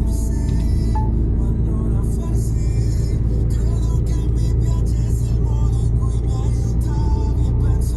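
Mercedes-Benz Actros truck's diesel engine heard from inside the cab while driving, a steady low drone that strengthens slightly about two seconds in, with music playing over it.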